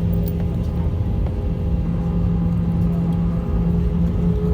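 Airliner jet engines running at takeoff power, heard from inside the passenger cabin: a steady rumble with a constant hum over it.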